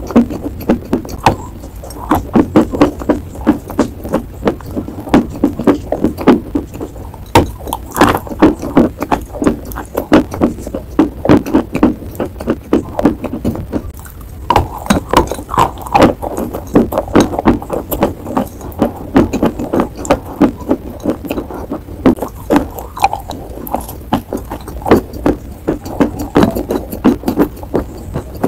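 Crunching as a person chews a bitten-off piece of hard, dry pressed chalk: a rapid run of sharp cracks and gritty grinding with brief lulls between bites.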